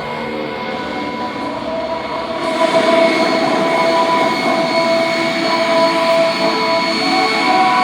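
MiG-17 jet fighter's centrifugal-flow turbojet running at taxi power: a steady whine of several held tones over a rushing haze, growing louder about two and a half seconds in.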